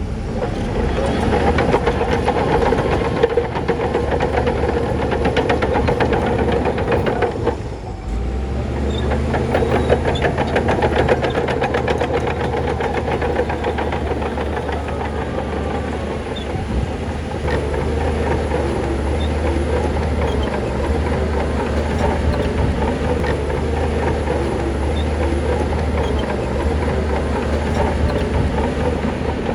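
Heavy diesel earthmoving machinery running under load with a steady metallic clatter. About eight seconds in the sound dips briefly, then a deeper, heavier engine tone comes in and holds.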